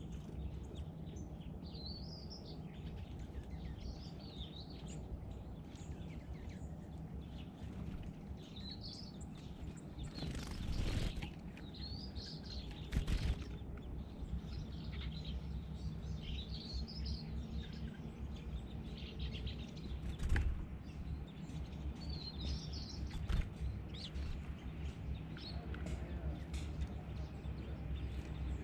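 Small birds chirping with short repeated calls, over a steady low background hum, with a few brief rustling bursts of wing flutter or splashing.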